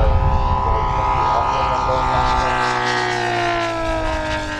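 MOKI 250 radial engine of a 1:4 scale RC Grumman F4F Wildcat running in flight. The propeller and engine drone is steady, then its pitch falls gradually over the last two seconds.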